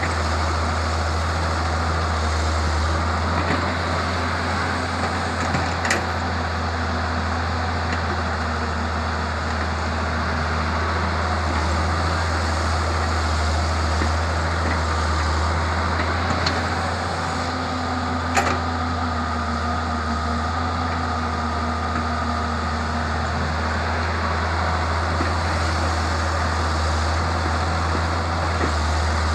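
Samsung excavator's diesel engine running steadily, with a higher whine for a few seconds past the middle and two sharp knocks.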